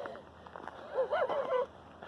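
A woman's voice talking some way off, faint, with a wavering pitch for under a second about a second in, and a few light clicks.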